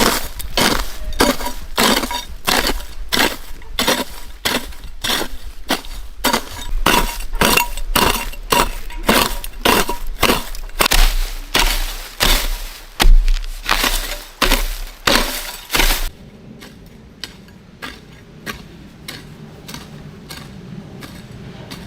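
Hard, repeated striking blows, about two a second, each with a sharp clinking ring. They stop about three-quarters of the way through, leaving fainter, scattered knocks.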